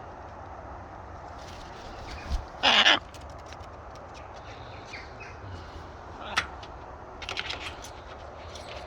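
Wind buffeting the microphone in a steady low rumble, with one loud short high cry about three seconds in and a few fainter short cries later.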